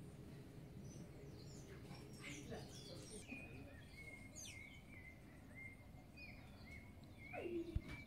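Wild birds chirping and calling: a run of short, repeated whistled notes with higher chirps mixed in, over a faint steady outdoor background. A lower falling note and a brief sharp click come near the end.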